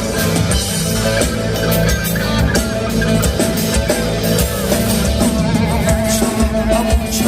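Live rock band playing an instrumental passage: electric guitar over bass and a drum kit with a steady beat.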